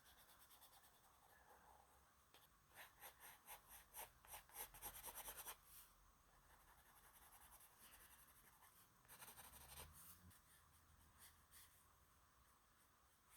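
Faint pencil strokes scratching on sketchbook paper, in two quick flurries: a longer run of rapid strokes about three seconds in and a shorter one about nine seconds in.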